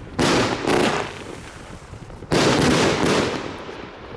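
Firework compact cake with gold comet tails and gold bursts firing: two loud blasts close together just after the start, then a longer blast about two seconds in, each fading off.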